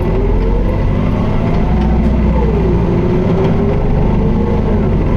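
Interior running sound of a Toei city bus, an Isuzu QDG-LV290N1, driving with its gearbox held in 4th: a heavy diesel rumble with a whine that rises in pitch for about two seconds as the bus speeds up, then falls and holds steady.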